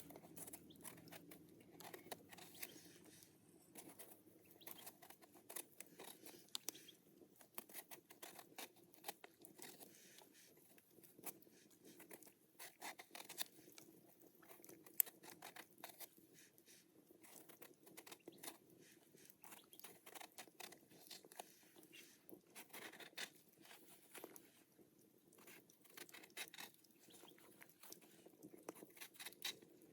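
Faint, irregular small clicks and crunches of food being handled and prepared by hand.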